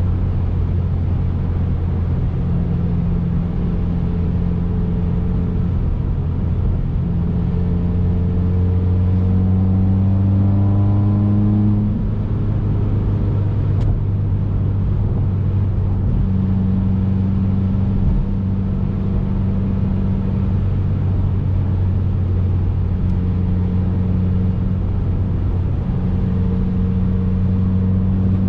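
2019 Subaru WRX's turbocharged flat-four engine pulling the car along, over steady road noise. Its pitch climbs from about eight seconds in as the car accelerates, drops sharply at about twelve seconds as at a gear change, then holds steady.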